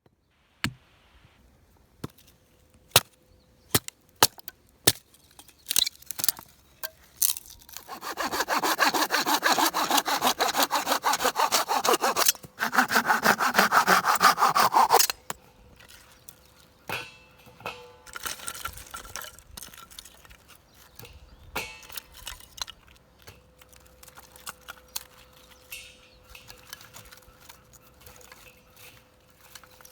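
Firewood being sawn by hand: two runs of quick rasping saw strokes lasting a few seconds each. Before and after come scattered sharp snaps and knocks of wood.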